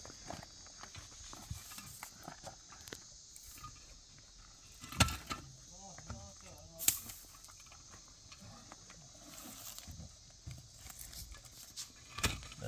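A few sharp knocks, two seconds or more apart, over faint distant voices and a quiet outdoor background.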